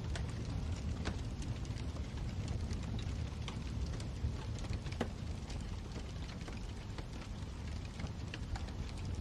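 Wood fire burning in a fireplace: a steady low rumble of flames with frequent sharp crackles and pops of the burning logs.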